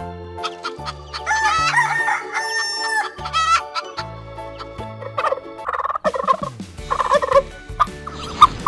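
A rooster crowing one long, wavering crow, followed a few seconds later by shorter clucking calls, over backing music with a low bass line.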